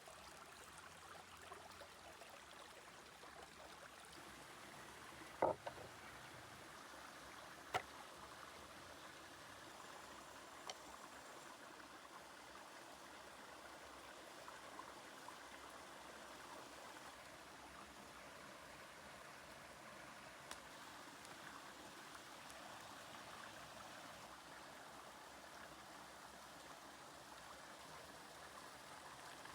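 Faint, steady trickling water, broken by a few short sharp clicks, the loudest about five and a half and eight seconds in.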